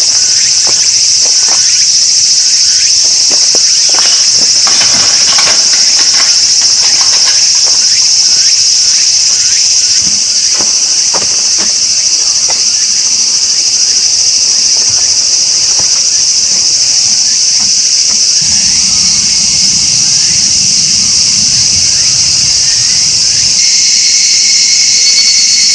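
A steady, high-pitched chorus of insects chirring without a break. Scattered light clicks and knocks fall in the first half, and a low rumble comes in for a few seconds past the middle.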